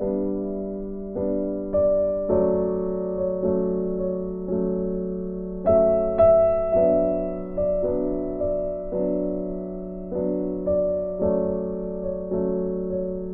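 Soft background piano music: slow single notes and chords struck and left to ring.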